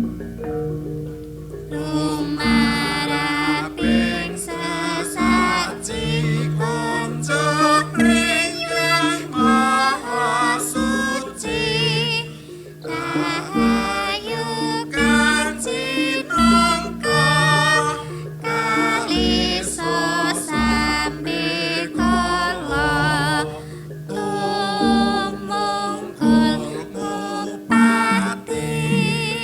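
Javanese gamelan music: a singer holds wavering phrases with vibrato over the steady ringing tones of the bronze metallophones and gongs.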